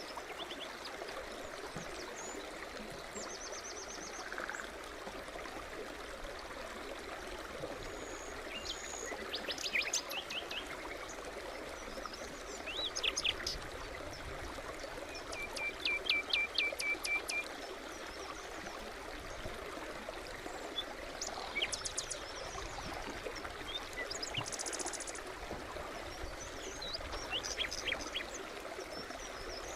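A forest stream running steadily, with small birds singing and calling over it in short trills and chirps, the loudest a quick run of repeated notes about halfway through.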